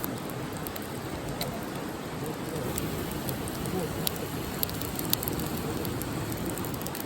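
Campfire burning: a steady hiss with scattered sharp crackles and pops from the wood.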